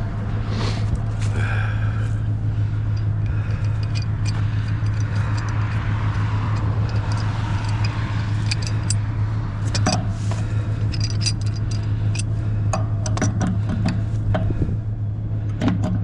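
Vehicle engine idling steadily, with scattered clinks and clanks of scrap metal being moved and rummaged through.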